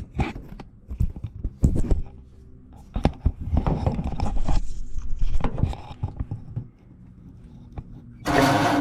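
Knocks, clatters and scraping of handling around the engine, then about eight seconds in the 1948 Ford F5's starter motor suddenly starts spinning the engine over with a steady whirring. The engine is being turned over to show the valves opening and closing.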